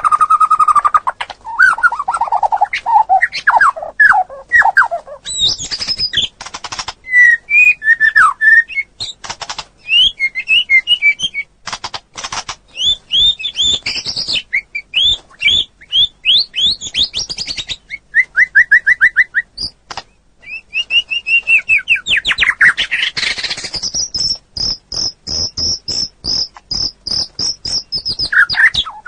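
Songbirds singing a loud, varied song of whistled phrases, sliding notes and quick chips, ending with a long rapid trill of high repeated notes.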